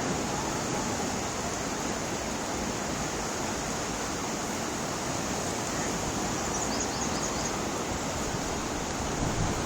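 Floodwater rushing, a steady even noise that does not let up.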